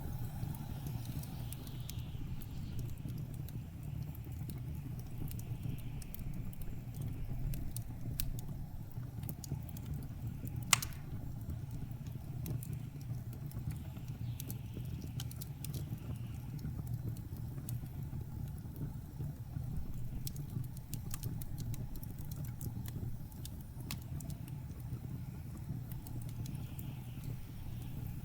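Blizzard wind blowing with a steady low rumble, over a wood fire crackling with scattered small pops and one sharp, loud pop about eleven seconds in.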